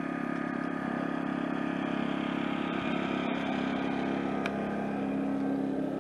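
Off-road motorcycle engines running during a hare scrambles race, a steady drone whose pitch shifts a little near the end.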